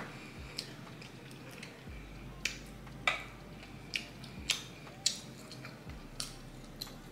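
A person chewing fufu and egusi soup close to the microphone: faint wet mouth sounds with about nine sharp clicks and smacks at uneven spacing, roughly one every half second to a second.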